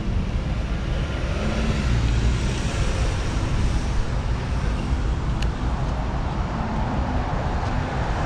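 Street traffic: motor vehicles running and passing, a steady low hum of engines and tyres.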